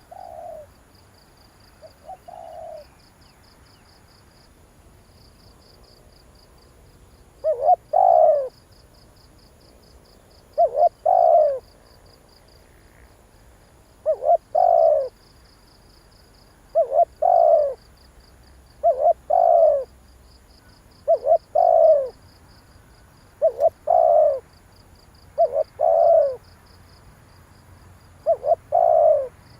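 Spotted dove cooing, a call used to lure wild doves. It repeats every two to three seconds as a short note followed by a longer one. Two fainter calls come at the start, then a few seconds' pause before the louder run.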